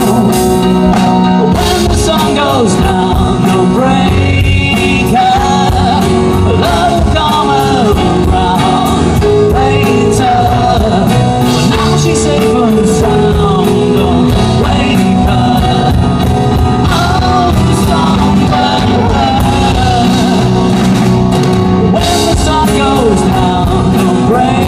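Live rock band playing a song, with a wavering lead melody over a steady beat.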